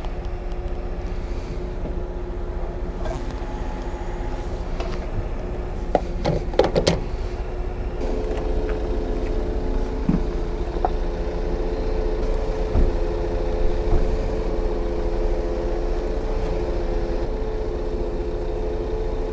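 Motorcycle engine running steadily, its pitch holding even, with a few sharp clicks or knocks about six to seven seconds in.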